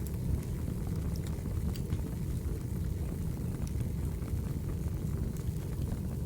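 Firewood burning: a steady low noise of the fire with scattered small crackles and pops.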